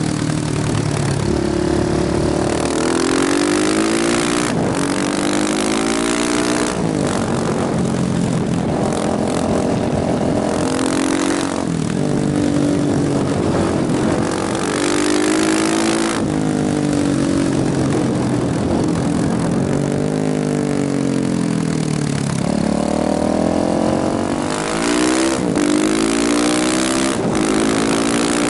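KTM motorcycle engine pulling hard, its pitch climbing and then dropping sharply over and over as it shifts up through the gears, over steady wind noise.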